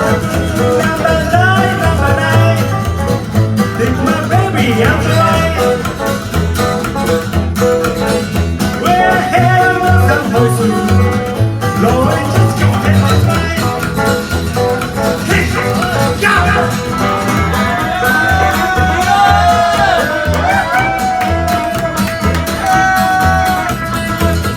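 Live rock band playing: guitar and bass over drums, with a lead line bending in pitch above them.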